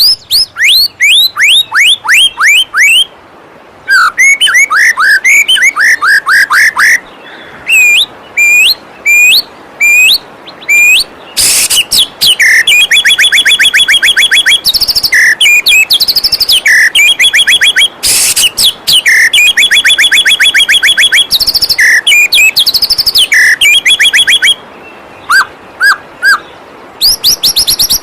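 White-rumped shama (murai batu) singing loudly in quick repeated phrases: runs of downward-sweeping whistles, then fast rattling trills near the middle. Underneath is the steady rush of a flowing waterfall.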